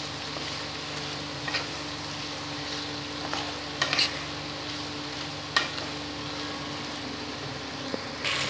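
Pumpkin, potato, drumstick and prawns sizzling in oil as a wooden spatula stirs them through the spices, with a few sharp knocks and scrapes of the spatula against the pan.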